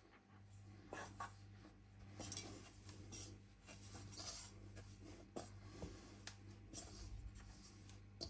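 Faint kitchen handling noises: scattered light taps and rubbing or scraping, a dozen or so short clicks spread through, over a steady low hum.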